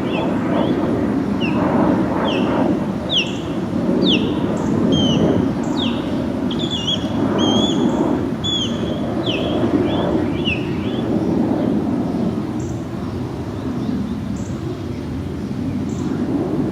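Deep, rolling rumble of a departing jet airliner's engines, swelling and fading over the seconds. For about the first two-thirds a small bird chirps repeatedly over it in quick, high, downward-sliding notes.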